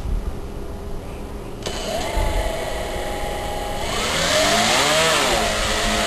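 Electric motor and propeller of a homemade foam RC flying truck spinning up: a steady whine starts suddenly a couple of seconds in, then gets louder as the throttle is opened, its pitch rising and falling twice.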